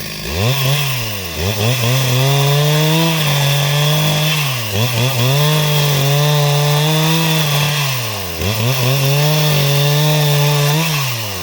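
Two-stroke chainsaw running at high revs while cutting timber into rafters. The engine note dips sharply and climbs back several times as the load or throttle changes.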